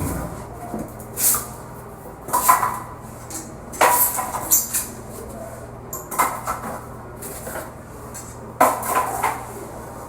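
Kitchen sink and its packaging being handled during unboxing: a series of about six sharp knocks and clatters, with scraping in between.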